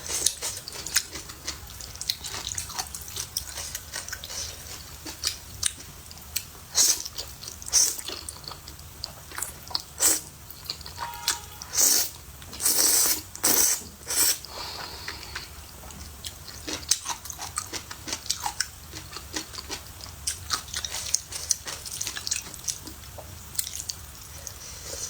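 Close-up eating sounds: chewing and biting with many short wet clicks and smacks, and a few longer noisy bursts around the middle.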